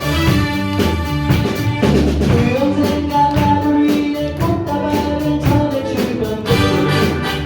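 A live band playing a pop-rock song, with regular drum hits and a bass line under a sustained melody line and singing.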